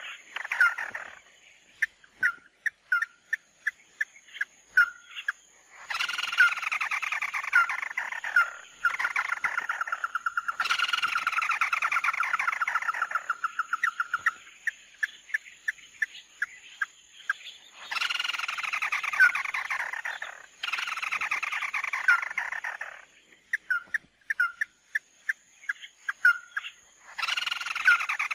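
Recorded calls of the bird Vietnamese trappers call 'mắt đỏ', played back as a lure. Bouts of fast trilled notes lasting two to three seconds alternate with strings of spaced, single sharp chirps.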